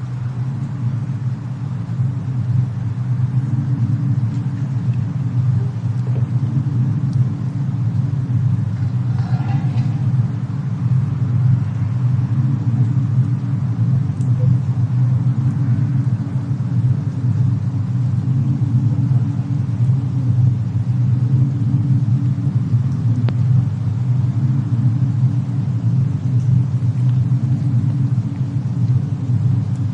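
Layered fireplace-and-snowstorm ambience: a steady low rumble throughout, with a few faint sharp clicks scattered through it.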